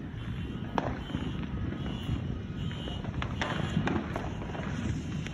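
Distant fireworks and firecrackers popping now and then, with a cluster of sharp pops about three and a half seconds in, over a low steady rumble.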